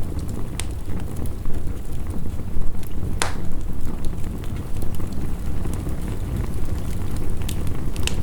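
Wood fire crackling with scattered sharp pops, one louder pop about three seconds in, over the steady low rush of heavy rain.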